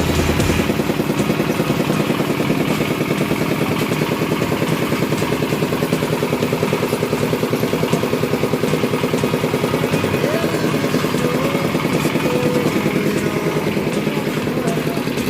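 Engine of a well-drilling winch running steadily, with a fast, even pulsing beat.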